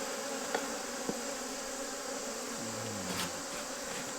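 Honeybees buzzing steadily around an opened hive, the sound of a strong, very active colony. A brief lower hum rises over it about three seconds in, and there are a few faint clicks.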